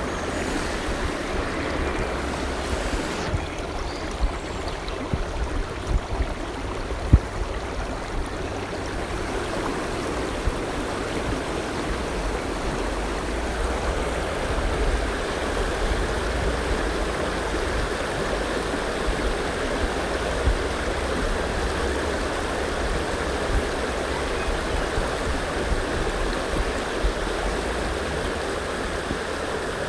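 River water flowing steadily, a continuous rushing, with a few brief low thumps, the sharpest about seven seconds in.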